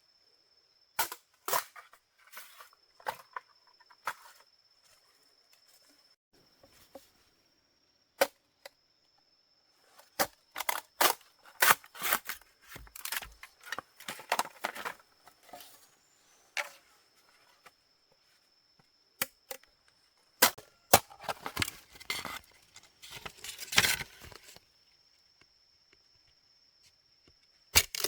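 Irregular sharp knocks and cracks in three bunches, with a steady high thin tone behind them.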